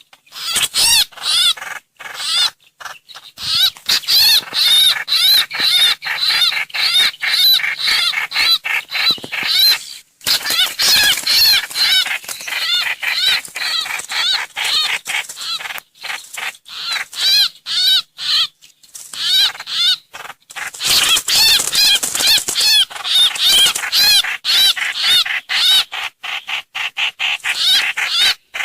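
Trao trảo bird giving its rapid chattering 'hoành hoạch' call. Quick arched notes come several per second in long loud runs, broken by a few short pauses.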